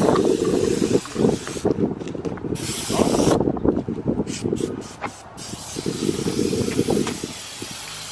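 Aerosol spray paint can hissing as paint is sprayed onto a car, in several bursts of different length with short breaks between them, ending in a longer spray.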